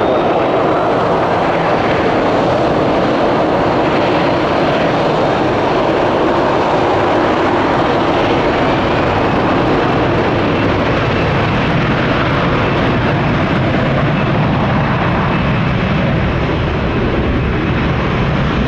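Boeing 737-800 jet engines running loud and steady as the airliner departs.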